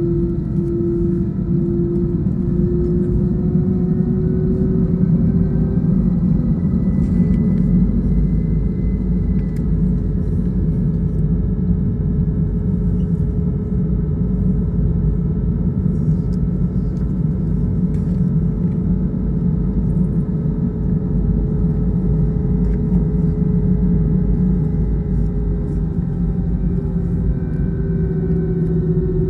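Airbus A320-214's CFM56-5B jet engines running, heard inside the cabin: a steady low rumble with a humming tone that rises a little in pitch over the first few seconds, holds, and eases back down near the end.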